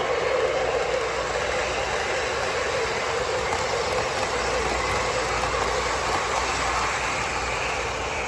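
Model train running on a layout, a steady rumble of motor and wheels on the track.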